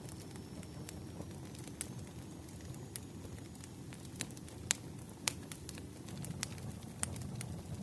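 Wood fire crackling: irregular sharp pops and snaps over a low, steady rumble of burning logs, with a couple of louder snaps about halfway through.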